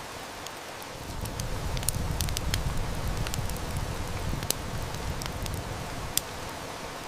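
Steady rain hiss with a wood fire crackling and snapping in scattered sharp pops. About a second in, a low rumble of distant thunder swells, then fades over about five seconds.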